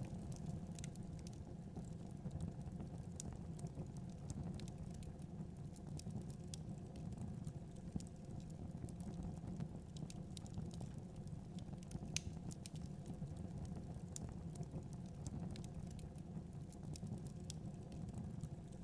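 Wood fire in a fireplace crackling, with irregular small sharp pops over a steady low rumble.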